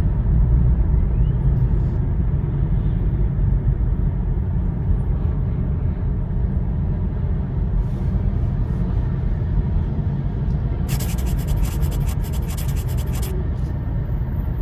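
Interior of an airport people-mover train car running, a steady low rumble. About eleven seconds in, a couple of seconds of rattling clatter is heard.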